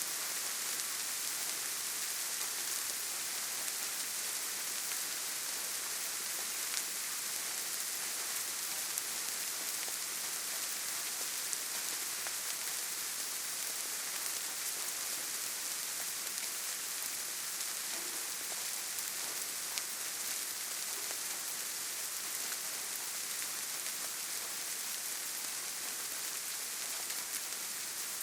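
Steady gentle rain falling, an even hiss of many small drops with a few single drops ticking out here and there.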